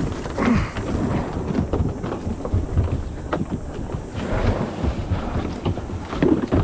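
Wind rumbling on the microphone, with irregular knocks and splashes of a kayak and paddle being put into the river.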